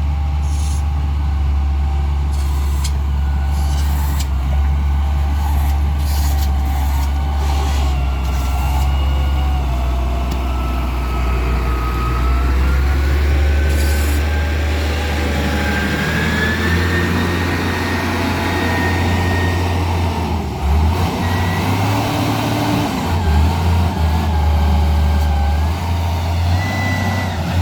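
Heavy diesel engine running steadily, with a whine that rises in pitch about halfway through.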